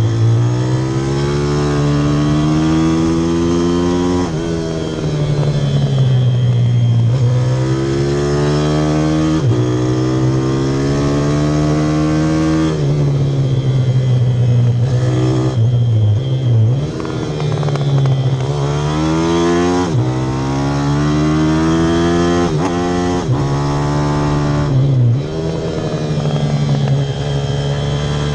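Pit bike's single-cylinder engine pulling hard while ridden. Its pitch climbs steadily over a few seconds, drops sharply, then climbs again, over and over through the gears, with short lifts off the throttle about halfway through and near the end.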